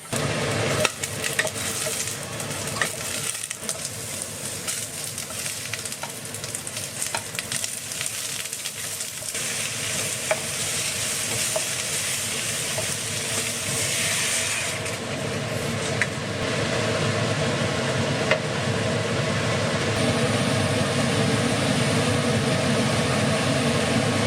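Food frying in a hot pan, sizzling steadily from the moment it goes in, with scattered clicks and scrapes of a spatula stirring it.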